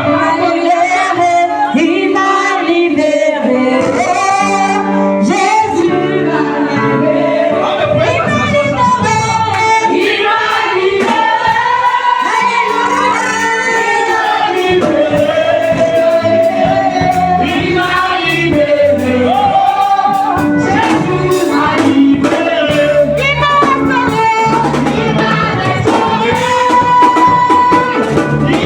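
Gospel music: a choir and voices singing over a band with percussion.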